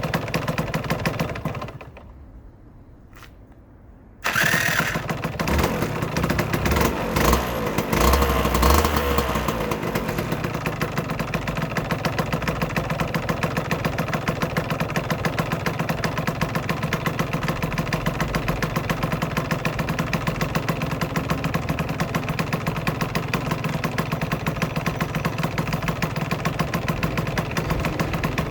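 Aprilia RS125's single-cylinder two-stroke engine idling, then stopping about two seconds in. It restarts after about two seconds, is blipped up and down a few times, and settles back to a steady idle.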